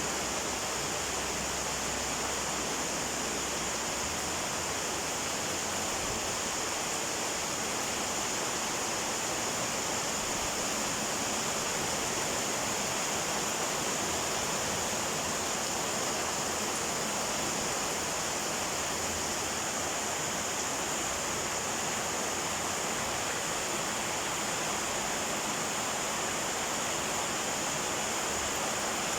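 Heavy downpour of rain, an even, unbroken hiss of water that keeps up at the same strength throughout.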